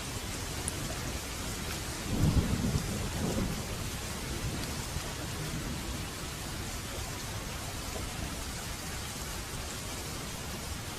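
Steady heavy rain with a low rumble of thunder rising about two seconds in and fading out about two seconds later.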